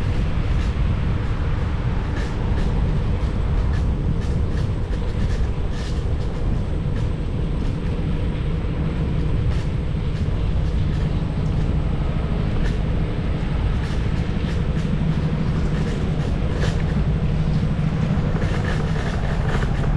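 Riding on a Xiaomi Mi Electric Scooter 1S: a steady low rumble of wind and road noise, with frequent short clicks and rattles throughout.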